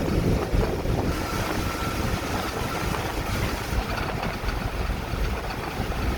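Vehicle driving along the road: a steady low engine and road rumble, with wind buffeting the microphone.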